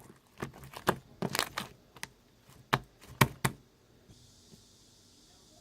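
Slime being squished and pressed by hand, giving a quick string of sharp clicks and pops that stops about three and a half seconds in.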